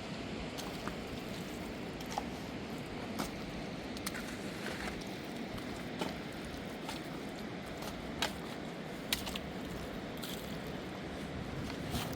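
Steady rush of a fast-flowing river, with a few short, sharp clicks or knocks at irregular moments.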